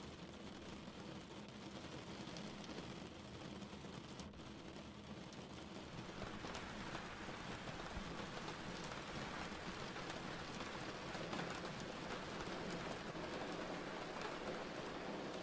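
Steady rain falling, an even hiss that grows heavier about six seconds in.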